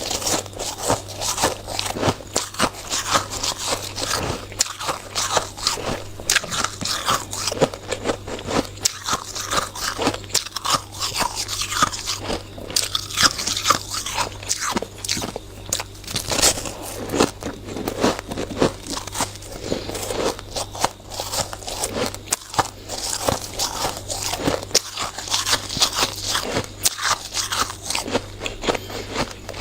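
Hard, frosty ice being bitten and chewed close to the microphone: a continuous run of crisp, irregular crunches and crackles.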